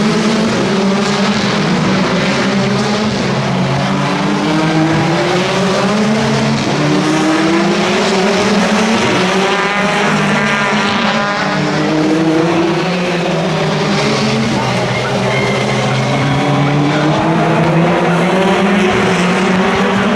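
Several race-car engines running hard together, each note repeatedly rising through the revs and dropping back at upshifts as a field of cars accelerates past.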